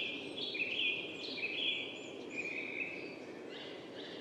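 A songbird singing a run of short repeated notes, about one a second, fading near the end, over a soft outdoor background hiss.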